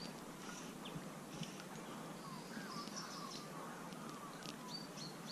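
Small birds chirping and calling, short high chirps and a few sliding whistles, over a steady outdoor background hiss.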